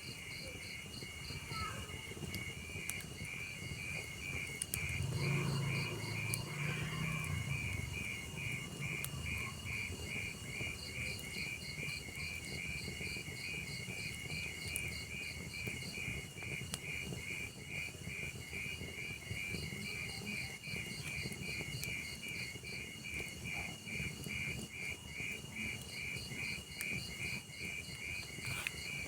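Crickets chirping in a steady run of evenly spaced pulses, over a log fire with scattered faint crackles. A low rumble rises about five seconds in and fades by about eight seconds.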